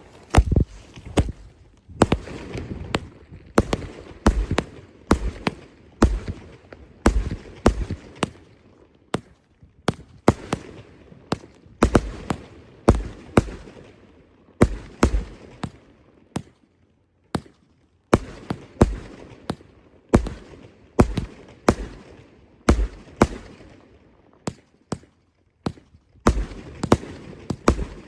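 Fireworks going off: a long run of sharp bangs, roughly one every second, each trailing a low rumbling echo, with a short pause just past halfway.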